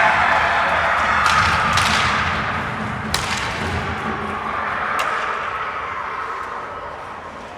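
Ice hockey arena sound: crowd noise fading away, broken by a few sharp cracks of stick on puck, four of them spread over the first five seconds.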